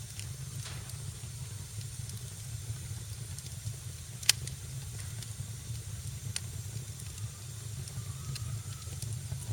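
Fire crackling in a fireplace: a steady low rumble and hiss with scattered sharp crackles and pops, one loud pop about four seconds in.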